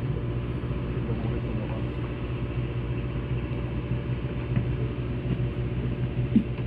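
A fishing boat's engine running steadily, a low hum made of a few even tones with no change in speed.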